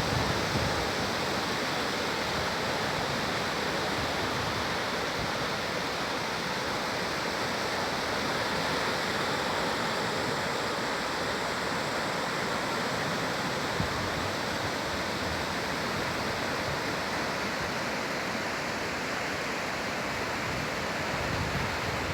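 Steady rushing noise of sea surf breaking on a beach, even and unbroken.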